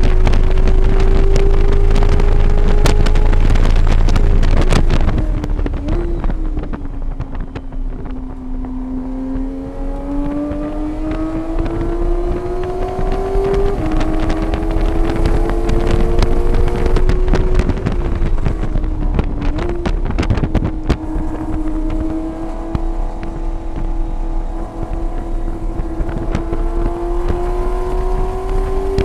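Track-day vehicle engine at speed on a circuit. Its note climbs steadily under acceleration, falls off about five seconds in and again near twenty seconds, and drops quickly about fourteen seconds in like a gear change. Heavy wind buffets the microphone throughout.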